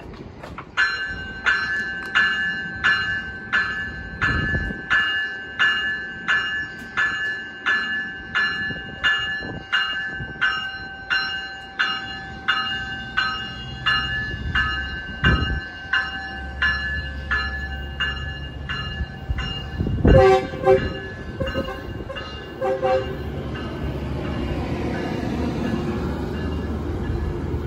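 Metrolink train's bell ringing steadily at about one and a half strokes a second, stopping after about twenty seconds for short blasts of the train horn. A low rumble then builds as the train starts moving off.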